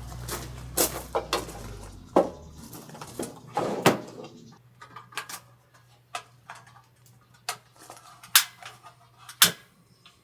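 Kitchenware being handled: a run of sharp knocks and clinks, the two loudest near the end. A low hum under them drops away about two and a half seconds in.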